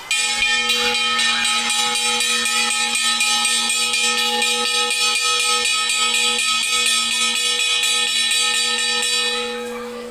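Electric alarm bell ringing continuously, the signal that starts an earthquake drill. It rings at a steady pitch and drops off about nine seconds in.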